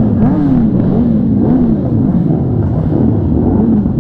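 Motorcycle engines revving in quick repeated throttle blips, the pitch rising and falling about twice a second.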